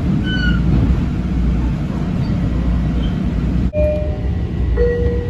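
Metro-North M7 electric commuter train running along the track, heard from inside the car: a steady low rumble with a few brief thin squeals from the wheels and a single sharp click a little past halfway.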